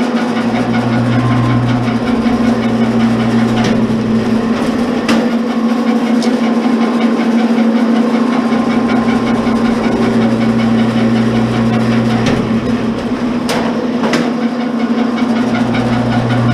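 Commercial electric wire stripper running: a steady motor hum, with a deeper hum that swells in and out three times and a few sharp clicks.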